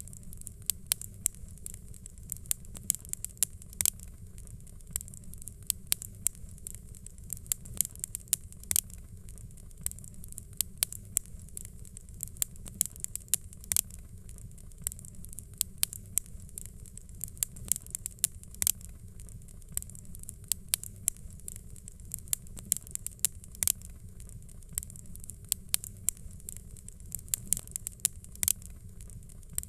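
Fireplace fire crackling: irregular sharp pops and snaps, a few a second and some much louder than others, over a steady low rumble.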